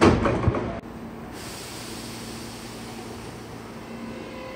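Hankyu 8300 series electric train at a stop: a loud burst of hissing air lasting under a second, typical of brake air being released, is cut off suddenly. A steady hum and hiss follows from the train standing at the platform.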